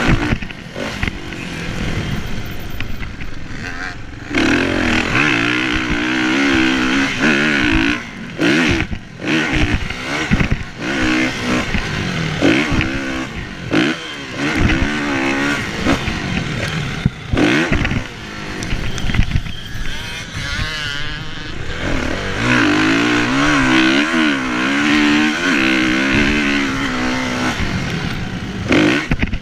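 Kawasaki KX450F's single-cylinder four-stroke engine revving hard, its pitch rising and falling again and again, with the throttle shut off briefly several times.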